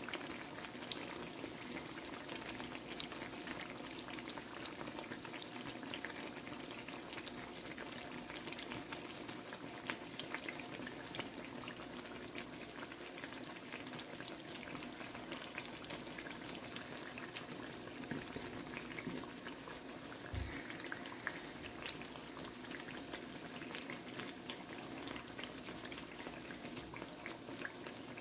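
Battered eggplant slices (beguni) frying in oil: a steady sizzle with fine crackling. A single soft knock comes about twenty seconds in.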